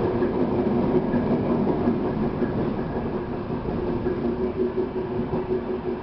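Passenger train running on the rails, heard from on board: a steady rumble with a low hum through it. The sound is louder at first, inside a tunnel, and eases slightly as the train comes out into the open.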